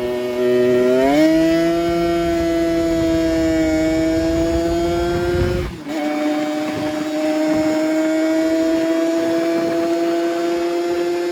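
Kawasaki Ninja RR single-cylinder two-stroke engine revving: the pitch climbs about a second in and is held at high revs. It breaks off abruptly about halfway through, and a second stretch of steady high revs follows.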